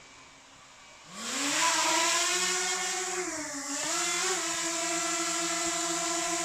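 DJI Mini 2 drone's four propeller motors starting up about a second in: a whine that rises quickly in pitch, dips briefly in the middle, then holds steady.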